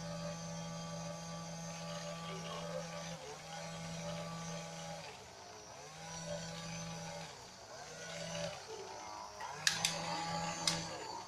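Small electric motor of a homemade vacuum cleaner switched on and off repeatedly: a steady hum that cuts out and restarts about five times, its pitch gliding as it spins down and up again. Two sharp clicks near the end.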